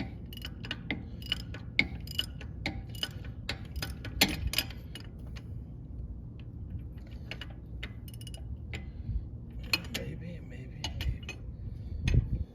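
Hand ratchet wrench clicking in irregular runs on truck brake hardware, with metal tool clinks and a heavier knock near the end. A low steady hum sits underneath.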